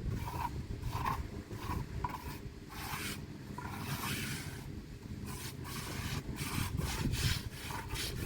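Repeated rough scraping strokes, irregular in pace, over a steady low rumble.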